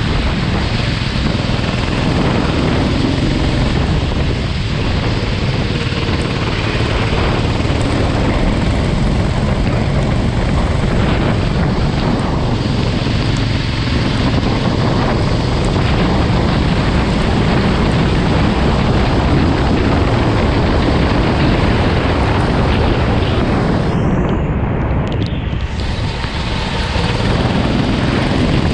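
Go-kart engine running at speed under heavy, steady wind rush on the microphone. Near the end the rush briefly loses its hiss for a second or two.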